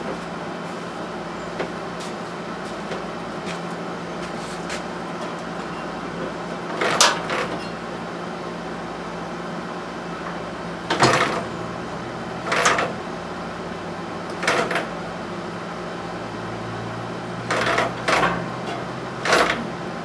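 Short knocks and scrapes of tools and metal parts being handled, about seven of them scattered through, over a steady low hum.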